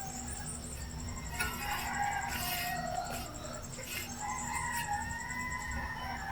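A rooster crowing twice, the second call longer and running on past the end, over a fast, even high ticking in the background.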